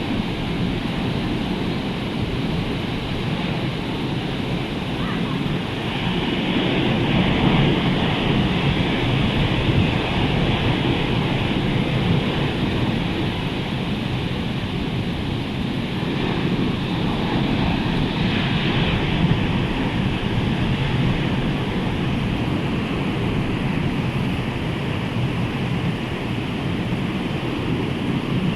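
Rough sea surf breaking continuously, swelling with each surge of the waves, with wind buffeting the microphone.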